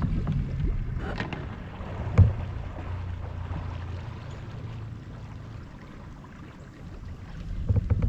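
Low rumble of a boat on the water, fading over several seconds, with a single knock about two seconds in.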